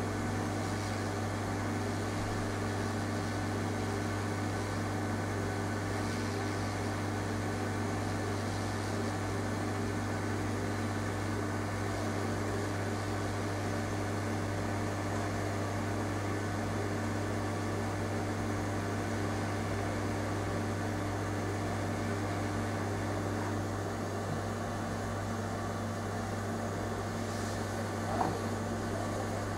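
Steady low hum of running bench equipment, with a faint tap near the end.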